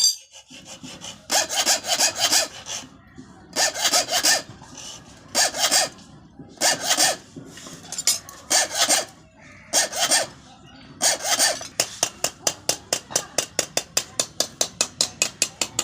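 Hand file rasping on a steel sickle blade in back-and-forth strokes. The strokes come first in slower groups of longer strokes, then fast and even, about four a second, from about eleven seconds in.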